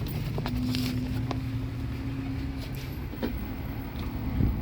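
A steady low mechanical rumble with a few light clicks and knocks. A faint steady hum sounds from about half a second in until nearly three seconds.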